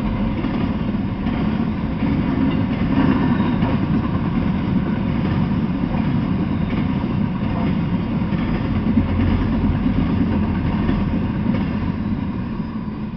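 Freight train of empty intermodal well cars rolling past, a steady rumble of wheels on rail, fading near the end as the last cars go by.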